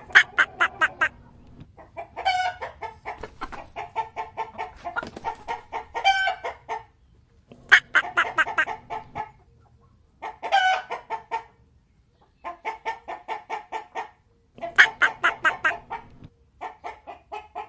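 Chickens clucking: quick runs of clucks, about five a second, in a string of bouts with short pauses between them.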